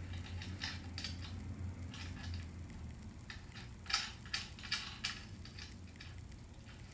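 Scattered light clicks and taps of small metal hardware and hand tools being handled while a motor bracket is fastened into a key machine, with a quick cluster of sharper clicks about four seconds in, over a faint steady low hum.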